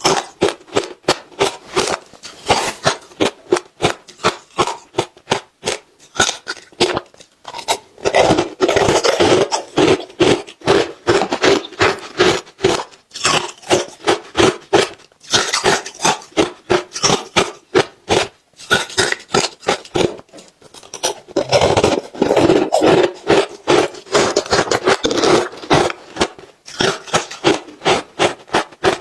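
Ice being bitten and chewed: rapid crunching and crackling in continuous runs, thickest in two longer stretches, with brief gaps between bites.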